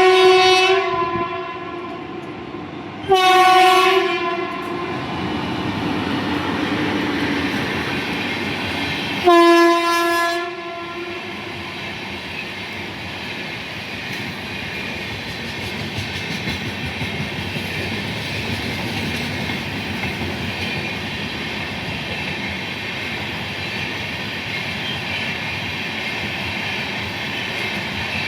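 Indian Railways train sounding its horn in three short blasts, one at the start, one about three seconds in and one about nine seconds in. After the third blast the train runs through with a steady rumble and clatter of wheels on the rails.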